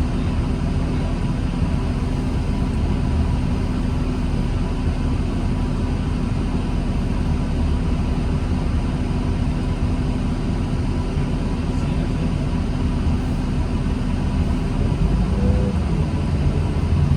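2009 New Flyer D40LFR diesel transit bus running with a steady low drone and a faint steady whine. About fifteen seconds in, the whine breaks off and a short rising-then-falling tone follows.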